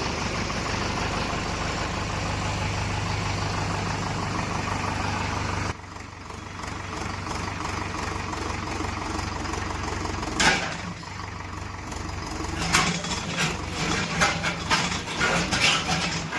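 Tractor engine running steadily. About six seconds in the sound changes abruptly and drops in level, and from about ten seconds on sharp clanks and knocks come over the running engine, more and more often toward the end.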